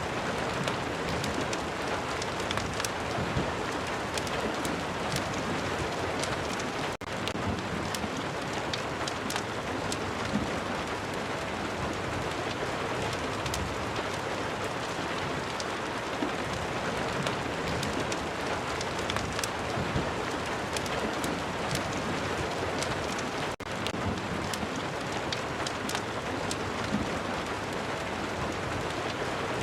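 Steady rain, with many small sharp crackles scattered through it, as from a fire crackling; the level dips briefly twice.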